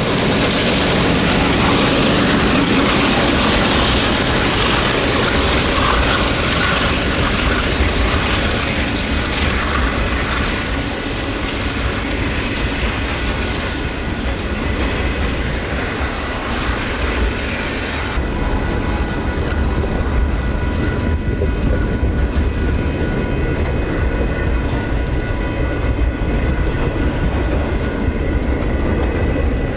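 A train rolling past on the tracks: a steady rumbling noise with a few faint steady tones over it. The highest hiss drops away about eighteen seconds in.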